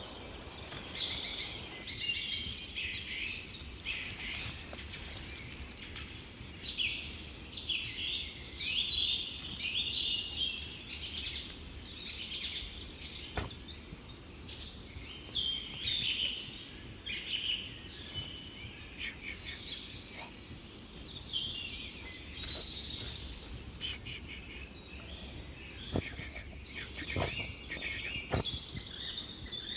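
Small birds chirping busily, many short overlapping calls, with a few sharp clicks about halfway through and near the end, over a steady low background rumble.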